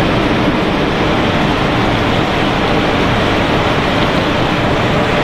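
Snack chip production line machinery running: a loud, steady, even noise from the conveyors and motors, with a faint hum.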